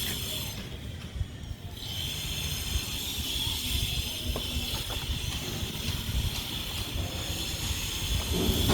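Wind buffeting the microphone as a fluctuating low rumble, under a steady high hiss that briefly drops out about a second in. A few faint light clicks.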